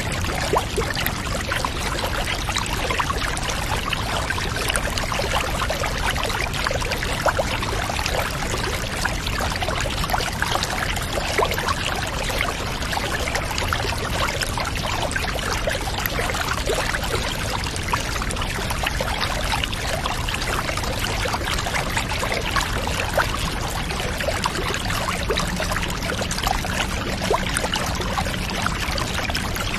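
Water pouring and trickling steadily, dense with small splashes and unchanging throughout.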